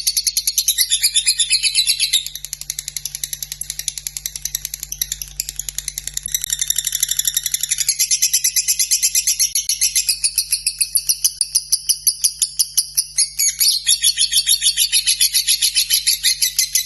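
Lovebird singing a long, unbroken ngekek: a rapid, high chatter of evenly repeated notes that drops in level about two seconds in and grows louder again from about ten seconds in.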